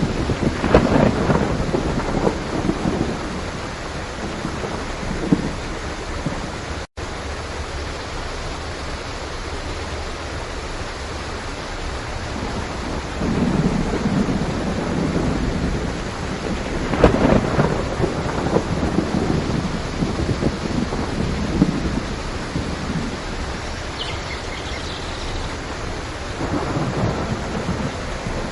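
Steady heavy rain with rolls of thunder rumbling over it several times, swelling and fading. The sound cuts out for a split second about seven seconds in.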